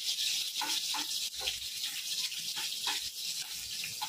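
Chopped garlic and green chillies sizzling steadily in hot oil in a non-stick wok, with several short scrapes of a metal skimmer spoon stirring them against the pan.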